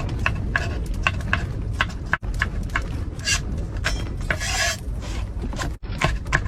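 Quick, even strokes of kitchen prep work, about five a second, with a short hissy rustle a little past the middle, over a steady low rumble of strong wind outside the camper.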